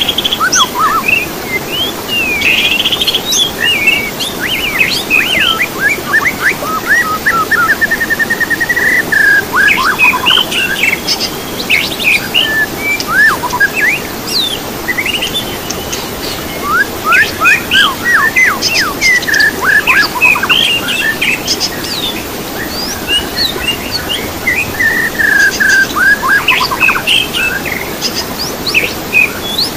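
Songbirds singing without a break: a busy mix of quick chirps, whistled glides and rapid trills, over a steady background hiss.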